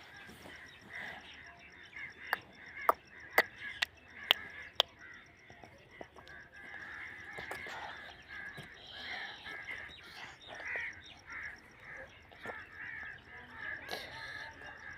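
Birds calling over and over, many short overlapping calls, with a run of about seven sharp, loud clicks between about two and five seconds in.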